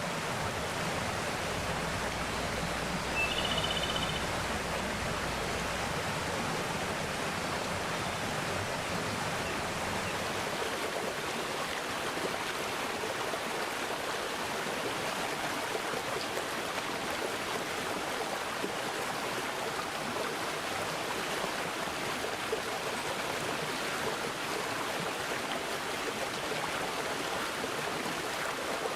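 Mountain stream water flowing steadily over rocks in a continuous rushing noise. A short high bird chirp sounds about three seconds in.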